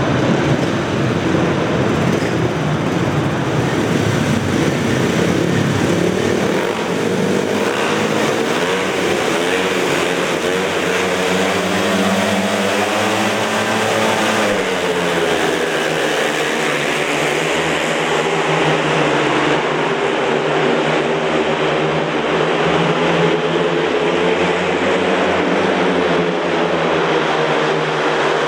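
Speedway motorcycles racing, their 500cc single-cylinder methanol engines running at high revs, the pitch rising and falling as they go round the track.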